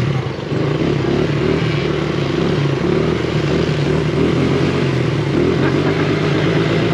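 Pit bike engine running steadily under way; the small four-stroke single of a Honda CRF70.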